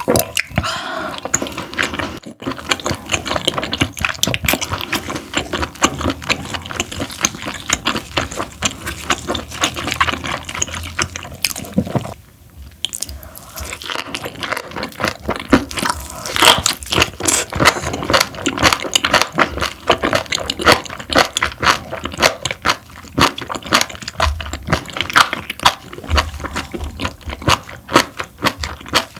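Close-miked mouth sounds of someone chewing parboiled webfoot octopus: a dense run of wet, rapid clicking and squishing, with a brief pause about twelve seconds in.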